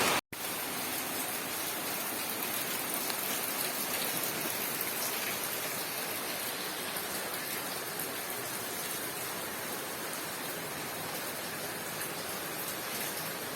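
Steady rain falling, an even hiss of drops on surfaces. It drops out for a moment about a quarter second in, then continues a little quieter.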